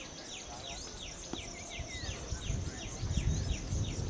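Birds calling in a steady series of short, falling chirps, about three a second, over a continuous high-pitched pulsing chatter. A low rumble comes in about halfway through and grows louder.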